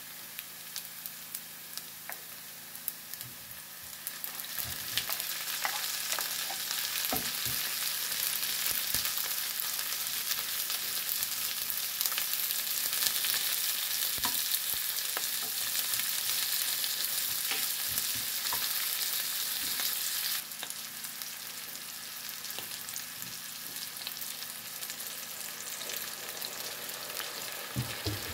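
Sliced onions and slices of smoked sausage sizzling in a frying pan, stirred now and then with a wooden spoon, with scattered small clicks and pops. The sizzle grows louder about four seconds in and drops back suddenly about twenty seconds in.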